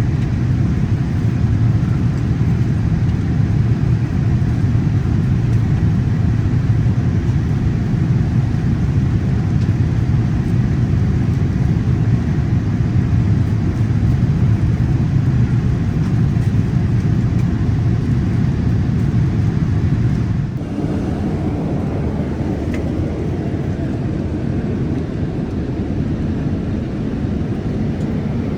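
Steady low rumble of a Boeing 787-8 airliner heard from inside the cabin. About twenty seconds in the sound changes abruptly and drops a little.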